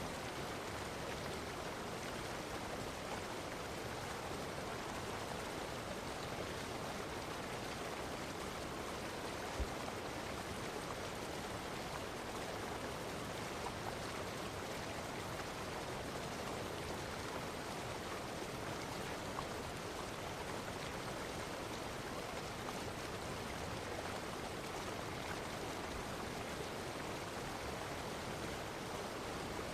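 Running water of a stream flowing steadily, an even rushing with no change. One brief tick about ten seconds in.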